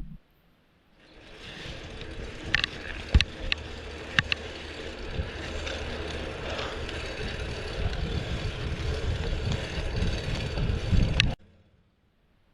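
Fixed-gear bicycle ride heard from a bike-mounted camera: steady road and wind noise with a few sharp clicks about two to four seconds in, and the low rumble growing stronger later. The sound fades in after a second of silence and cuts off suddenly near the end.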